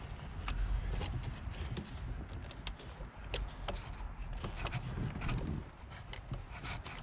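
Scattered small metal clicks and rubbing as a magnetic pickup tool and socket extension are worked down a spark plug well, reaching for a loosened spark plug, over a low rumble of handling noise.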